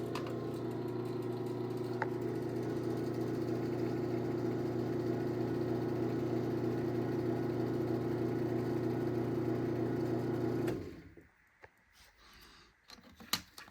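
Craftsman garage door opener's electric motor running through a closing cycle: a steady hum that cuts off suddenly about 11 seconds in as the travel limit is reached.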